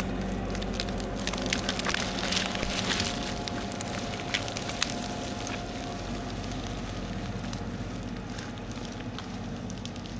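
Tractor engine running steadily while dragging logs out through brush, with branches crackling and snapping as they break. The snapping is densest in the first five seconds and thins out after.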